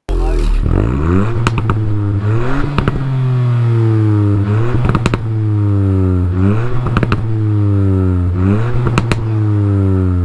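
Mk8 Ford Fiesta ST's 1.5-litre three-cylinder turbo engine being free-revved through its exhaust about five times. Each rev climbs quickly and falls slowly back toward idle, with sharp cracks near the top of several revs.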